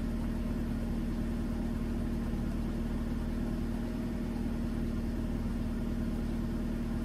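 Small car engine idling steadily, an even hum heard from inside the cabin.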